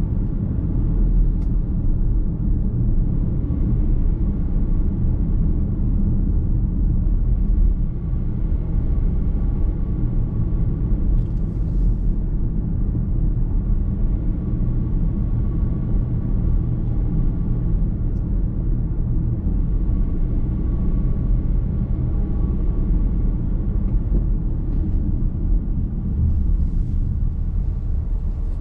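Car driving on the road, heard from inside the cabin: a steady low rumble of tyre and engine noise.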